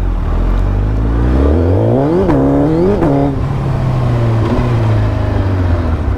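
Superbike engine accelerating hard. The revs climb, then drop quickly at two upshifts about two and three seconds in, and settle into a steadier, lower note.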